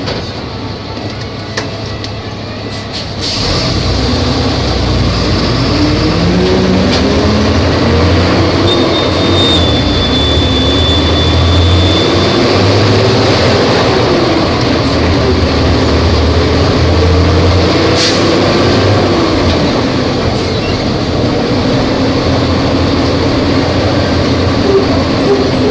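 Volvo B270F bus's diesel engine under way. Its note rises and falls several times, and it gets louder about three seconds in as it comes under load.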